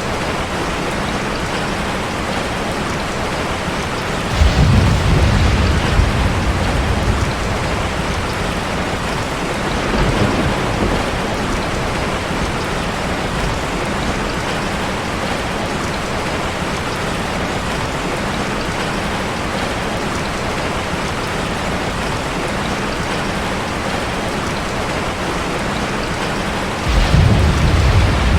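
Steady rushing water from an ambience soundtrack, a dense even hiss. Over it, a deep low rumble starts suddenly about four seconds in and lasts a few seconds, a weaker swell comes around ten seconds in, and another deep rumble starts near the end.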